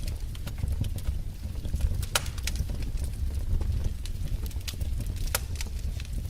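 Wood fire in a fireplace crackling: irregular sharp pops and snaps over a steady low rumble of the flames, with louder pops about two seconds in and again about five seconds in.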